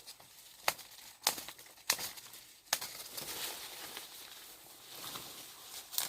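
A few sharp snaps or clicks, roughly one every half second to second, then a stretch of soft rustling hiss, with more clicks near the end.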